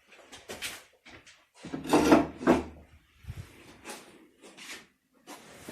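Handling noises: a series of short wooden knocks and scrapes, loudest about two seconds in.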